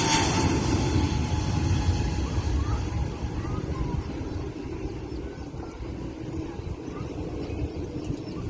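Airbus A320neo jet engines at takeoff power, a broad rumble fading steadily as the airliner climbs away, with a thin high whine that dies out in the first second.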